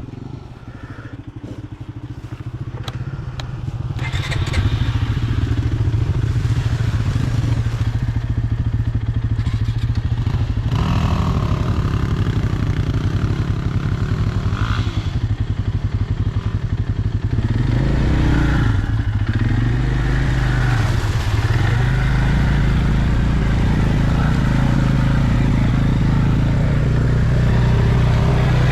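Off-road vehicle engine running under way on a rough trail, getting louder over the first few seconds, with light clattering early on; around two-thirds through the engine note drops and then climbs again as the speed changes.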